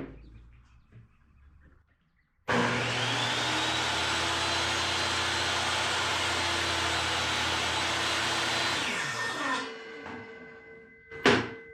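Electric power saw switched on, its motor spinning up quickly and running steadily for about six seconds, then switched off and winding down. A sharp knock comes near the end.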